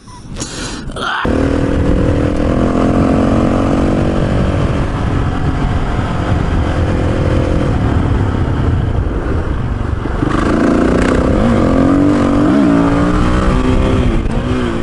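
Motorcycle engine running on the move, under a heavy rush of wind on the microphone. The engine note holds steady at first, then rises and falls from about ten seconds in.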